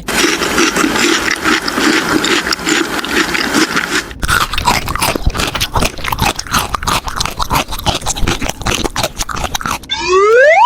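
Plastic toy packaging crinkling and being handled: a dense run of crackles and clicks that thins out after about four seconds.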